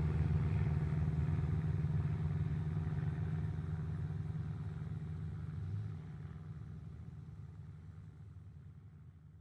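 Small touring plane's engine droning steadily as the plane flies away after a close pass, the sound fading gradually toward silence.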